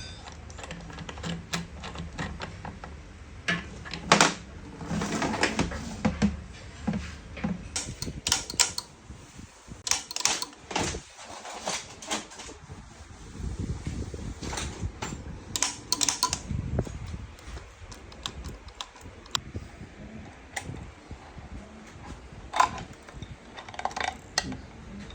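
Irregular clicks and clinks of small metal parts and hand tools being handled on a workbench, over a steady low hum.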